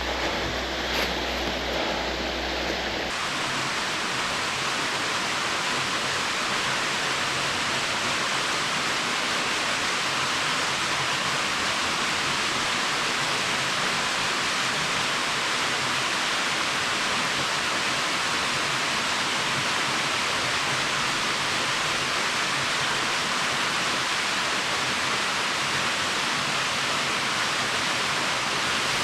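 Waterfall running: a steady, even rush of falling water that holds unchanged throughout.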